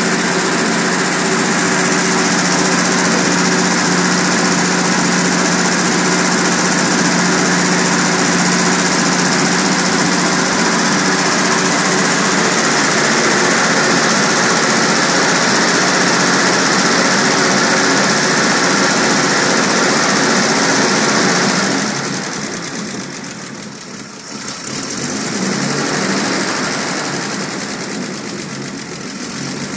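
Mopar flathead six-cylinder engine in an old Dodge, running steadily. In the last third it drops in loudness twice, then comes back.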